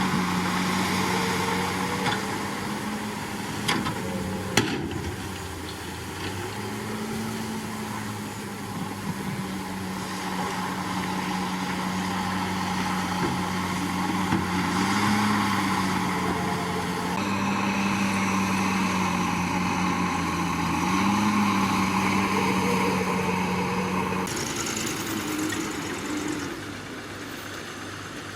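Komatsu D61PX bulldozer's diesel engine running steadily under work, swelling briefly in pitch several times as it takes load. A sharp metallic clank about four and a half seconds in, and the steady engine note drops away about four seconds before the end.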